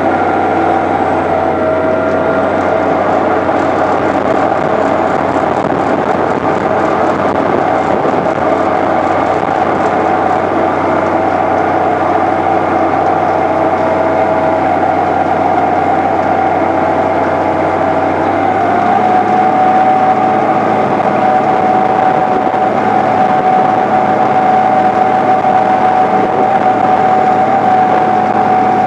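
A 1993 John Deere 8970 tractor's six-cylinder Cummins diesel running steadily under load while pulling a tillage tool. About two-thirds of the way through, its pitch steps up slightly and it grows a little louder.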